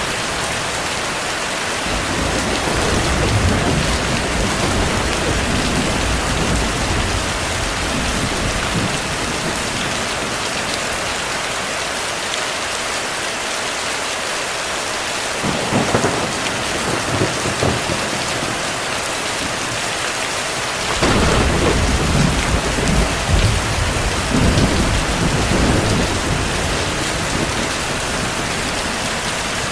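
Heavy rain falling steadily, with rolls of distant thunder: one rumble about halfway through and a louder, longer one starting about two-thirds of the way in.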